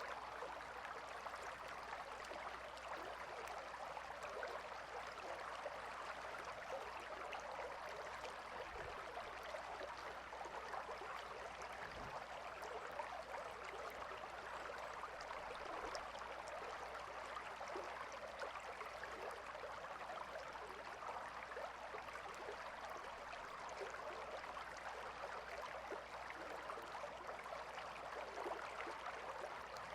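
A river flowing steadily, a continuous babbling rush of water with a fine trickling texture.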